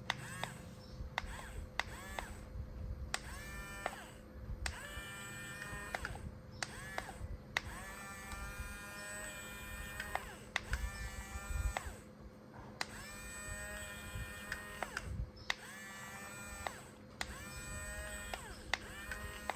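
Small geared electric motors of a remote-control toy construction vehicle whining in short runs, a second or two each. Each run starts with a click and rises quickly in pitch before holding steady.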